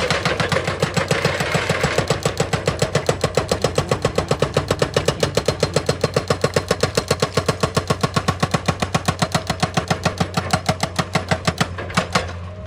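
Excavator-mounted hydraulic rock breaker hammering stone in a rapid, even run of about eight blows a second, over the excavator's steady engine hum. The hammering stops about twelve seconds in, leaving the engine running.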